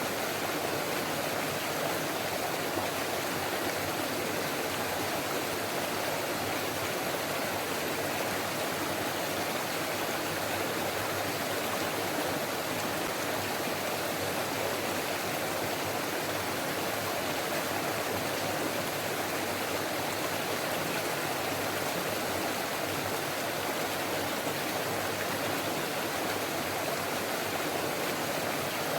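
Forest stream running over rocks, a steady babbling rush of water.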